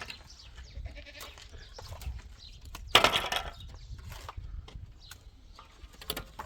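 A goat bleating once, loudly, for about half a second, some three seconds in, with a few faint knocks around it.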